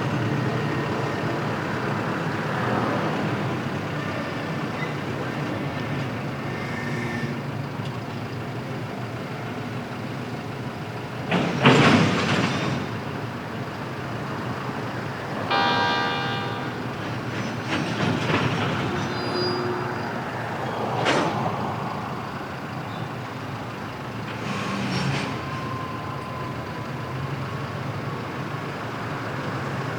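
Freight train running by: a continuous rolling rumble of wheels and wagons, with a loud clash about twelve seconds in and a short pitched tone a few seconds later.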